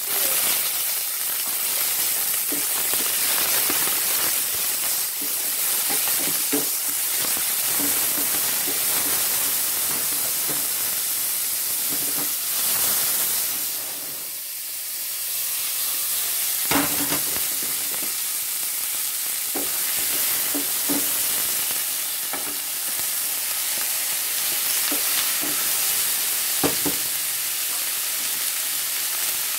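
Sliced bell peppers and onions sizzling in hot oil in a stainless steel sauté pan, stirred with a wooden spatula, with a few sharper knocks of the spatula against the pan. The sizzle drops briefly about halfway through as the pan is lifted off the gas burner.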